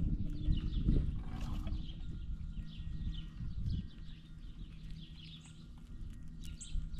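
Small birds chirping over and over at a feeder, with dull knocks and scuffling from animals moving and handling peanuts on a wooden feeder table. The knocks are loudest in the first few seconds and ease off after about halfway.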